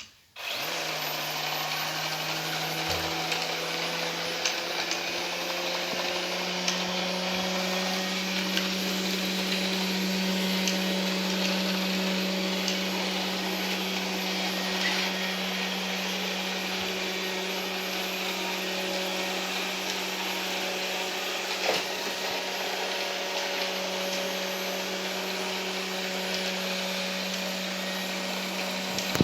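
Ilife V55 Pro robot vacuum switching on and running steadily: a motor hum that rises slightly in pitch over the first few seconds, with a whirring hiss over it and a few faint clicks.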